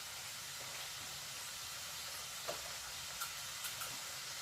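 Food sizzling steadily in a pan on the stove, a constant hiss with a few faint clicks past the halfway mark.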